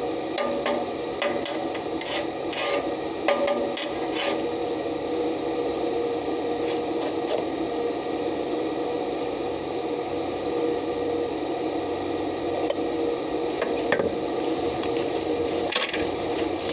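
Hand-tool work on metal, with a run of sharp taps in the first few seconds and a few more near the end, typical of a chipping hammer knocking slag off a weld. It sits over a steady machine hum.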